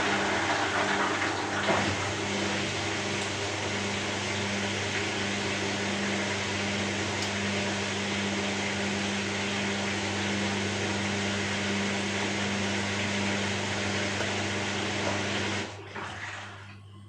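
Steady white noise, an even rushing hiss over a low hum, cutting off near the end to a much quieter background.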